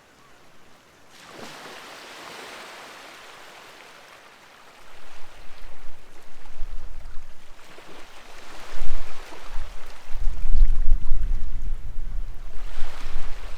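Waves washing onto the shore, three swells of surf rising and falling. From about five seconds in, wind buffets the microphone with a gusty low rumble, louder than the surf.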